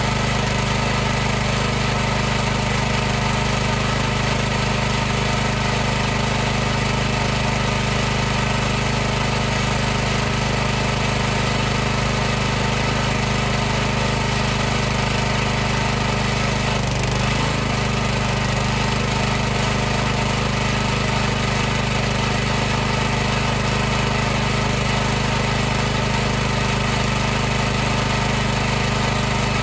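High-pressure washer running steadily: a constant, unchanging hum from its motor and pump over a hiss.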